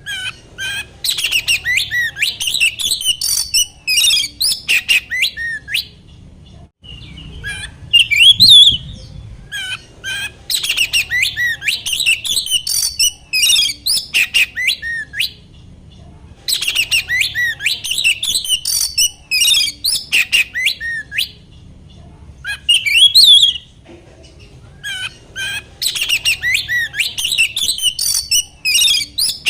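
Oriental magpie-robin (kacer) singing loudly in rapid phrases of sharp whistles and harsh notes. Each phrase lasts a few seconds, with short pauses between.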